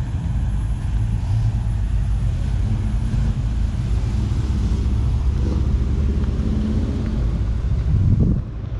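Cars driving slowly past, their engines running low and steady, with one passing loudest about eight seconds in.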